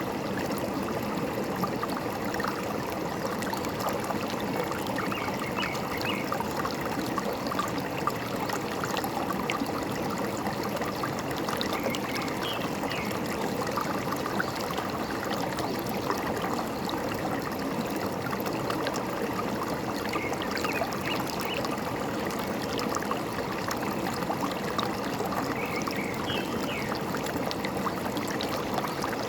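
Forest stream trickling and babbling steadily over stones, with a bird's short chirps rising faintly above the water every few seconds.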